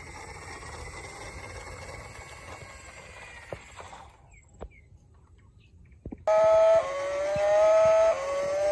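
A faint steady high tone over background noise, then a short near-silent gap with a few clicks. About six seconds in, a loud electronic melody starts, moving in steps from note to note.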